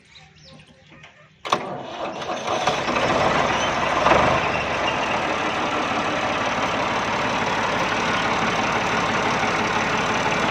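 1968 Ford 4000 tractor's three-cylinder engine being started on its electric key starter: it cranks and catches about a second and a half in, rises briefly about four seconds in, then settles into steady running.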